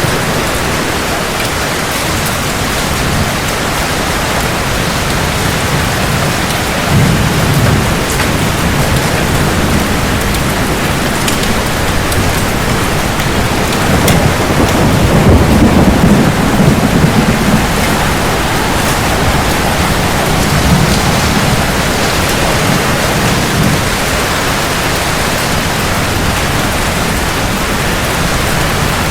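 Steady heavy rain with rolling thunder: a low rumble about seven seconds in, and a longer, louder roll about halfway through.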